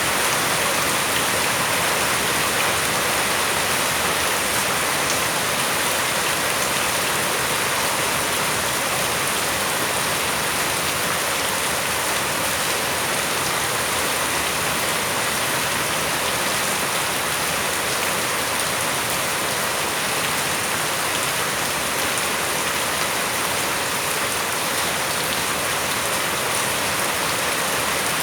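Steady rain falling and pattering on hard surfaces, an even hiss without letting up.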